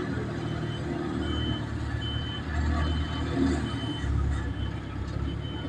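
A heavy vehicle's engine running under load, with a reversing alarm giving short high beeps a little more often than once a second. The engine swells louder around the middle.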